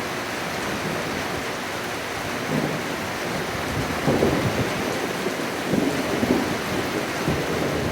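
Heavy rain falling steadily, with low rumbles of thunder swelling about two and a half, four and six seconds in.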